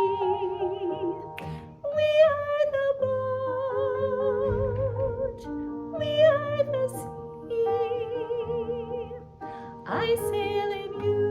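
A slow song: a voice sings long held notes with vibrato, in phrases a few seconds long, over sustained accompaniment.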